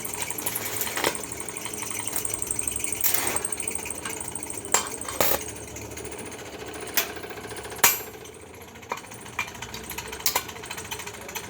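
Electric arc welding crackling rapidly, with a thin steady high whine over the first few seconds, then thinning out while several sharp knocks sound at irregular intervals.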